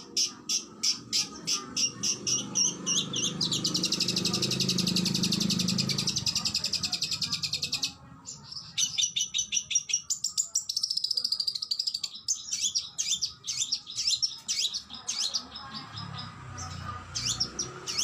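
Oriental magpie-robin (kacer) singing: a quick series of sharp repeated high notes, then about three and a half seconds in a dense, fast trill lasting some four seconds, followed by varied rapid whistled phrases.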